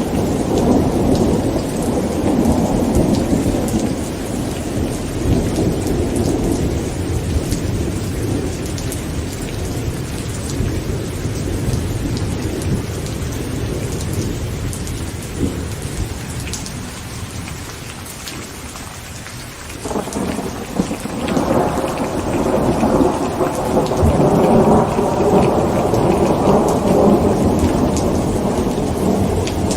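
Heavy rain drumming on a tent, with rolling thunder. One long rumble dies away, then a new peal breaks suddenly about two-thirds of the way through and swells into a loud, long rumble.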